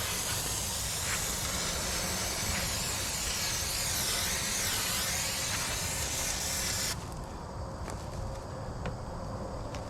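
Aerosol spray can hissing in one long continuous spray, wavering as the nozzle moves, then cutting off suddenly about seven seconds in.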